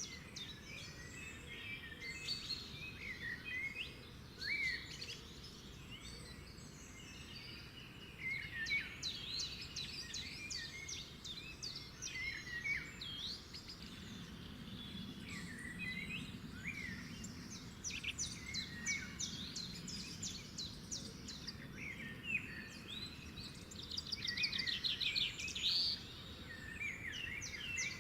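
Several birds singing together, a busy chorus of overlapping chirps, whistles and quick trills, over a faint low outdoor background. A loud, fast trill comes about three-quarters of the way through.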